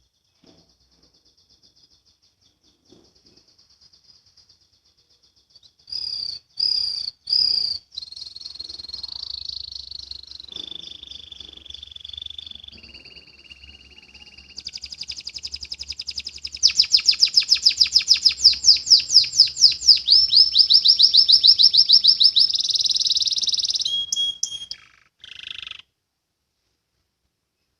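Domestic canary singing: a faint trill, then from about six seconds in a loud, high song made of rapid trills, each run of repeated notes held for a second or two at a new pitch, the fastest and loudest run near the middle. The song stops about two seconds before the end.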